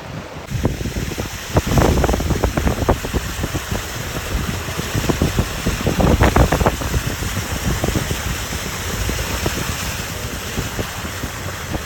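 Wind buffeting the microphone, a loud rumbling rush with irregular gusts, strongest around two seconds and six seconds in.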